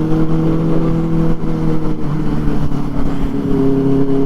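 Benelli 600i's inline-four engine, fitted with an IXIL aftermarket exhaust, running under way at a steady cruise. The exhaust note climbs slightly, eases down about two seconds in, then holds steady.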